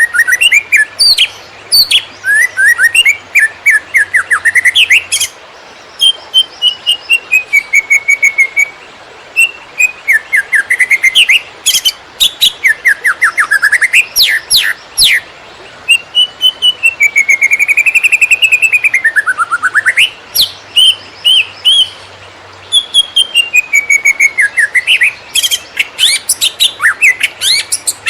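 Cucak ijo (green leafbird) singing a fast, varied 'konslet' song: loud whistled notes, quick rising and falling slurs and rapid runs of repeated notes, in phrases broken by short pauses.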